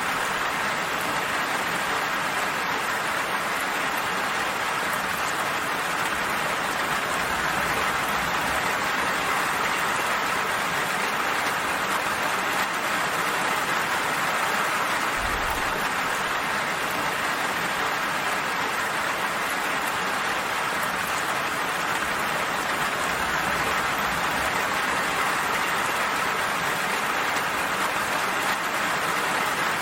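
Steady rain falling: an even hiss of many drops on a surface, with no single drops standing out, and a brief low rumble about halfway through.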